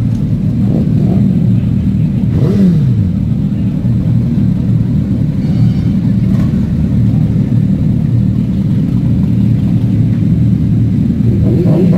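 Motorcycle engine running under way, with a steady rumble; the engine note drops about two and a half seconds in and climbs again near the end as the rider changes speed.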